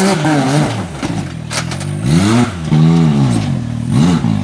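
Side-by-side UTV engine revving in repeated rising and falling bursts of throttle as it claws up a rocky ledge, with a few sharp knocks of the machine striking rock about a second and a half in.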